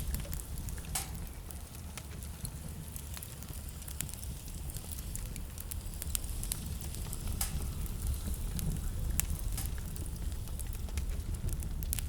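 Wood burning in a fireplace, crackling with scattered sharp pops over a low steady rumble.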